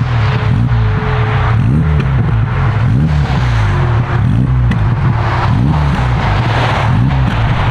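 Volkswagen Golf Mk3 estate's engine through its newly fitted exhaust, the note rising and falling over and over as the revs go up and down.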